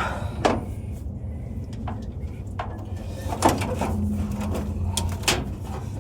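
Scattered knocks and clicks of hand tools and metal parts being worked on the truck's front end, over a steady low hum.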